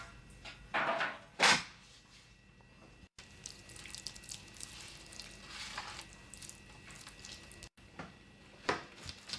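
Kitchen food-preparation handling noises: two short knocks or clatters about a second and a second and a half in, the second the loudest, quiet rustling between, and another short knock near the end.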